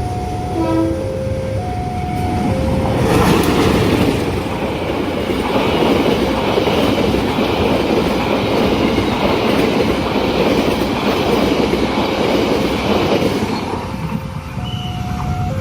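Level-crossing warning alarm alternating between two tones. About three seconds in, a train passes close by for about ten seconds with a loud rumble and wheel clatter that drowns out the alarm. The alarm is heard on its own again near the end.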